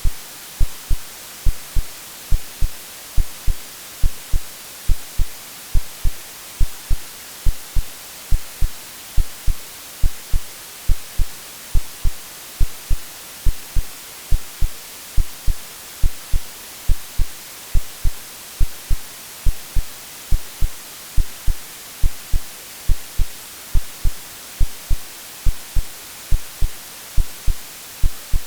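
A heartbeat sound of steady, even low thumps, about two a second, laid over a constant white-noise hiss. It is AI-generated as a womb-like sleep sound for soothing a baby.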